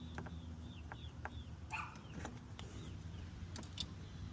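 A small bird chirping over and over in short falling notes, with a few sharp clicks and a steady low hum underneath.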